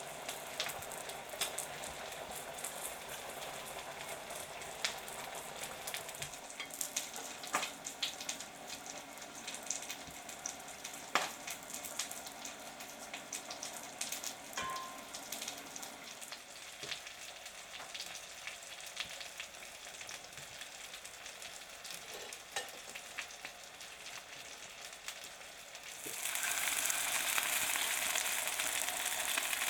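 Food frying in a pan of hot fat, with a steady sizzle and scattered pops and crackles. Near the end the sizzle suddenly gets louder and brighter.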